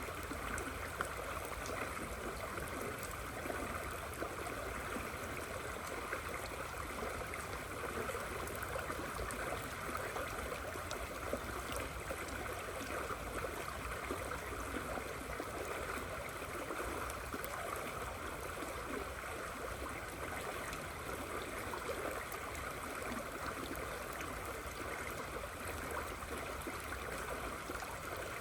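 River water flowing steadily as rain falls, an even rushing sound that does not change.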